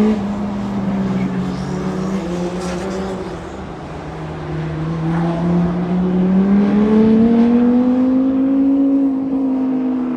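Car engine being driven hard: its pitch dips about three seconds in, then climbs steadily for about five seconds and eases off slightly near the end.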